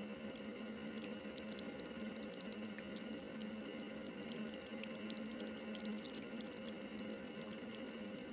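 Faint, steady trickling water with scattered tiny drips, over a steady low tone.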